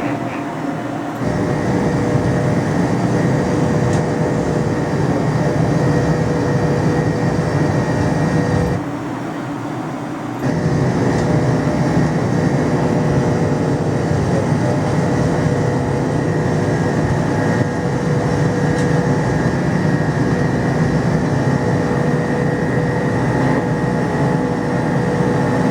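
McDonnell Douglas DC-10 jet engines running at high power: a steady rumble with a few steady whining tones over it. The level drops briefly twice, near the start and again about a third of the way in.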